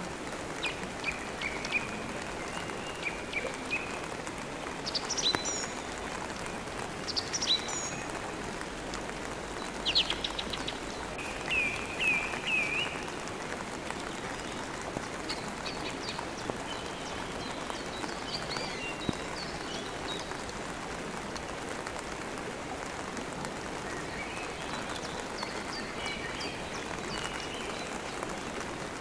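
Steady rain with birds chirping and twittering over it. Short call phrases come and go, busiest in the first half.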